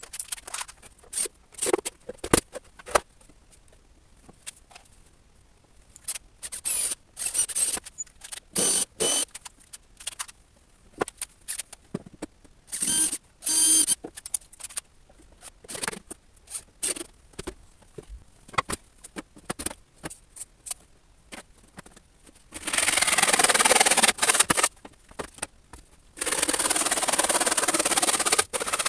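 Woodworking handling sounds: scattered short knocks, clicks and scrapes of wood pieces and tools. Near the end come two loud bursts of steady rasping noise, each about two seconds long.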